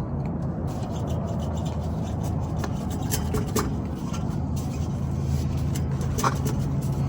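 Light scraping and rubbing, with scattered small metallic clicks, as hand tools work a stuck exhaust pipe joint and clamp loose under a pickup truck. A steady low hum runs underneath.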